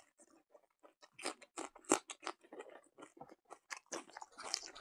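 Close-miked chewing of a handful of rice mixed with pig blood: a run of quick wet clicks and smacks from the mouth, starting about a second in.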